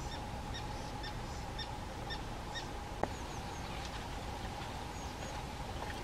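A bird calling: short, high notes repeating about twice a second through the first half, then fainter, higher calls. Underneath is a steady hum and low background noise, and there is a single sharp click about halfway.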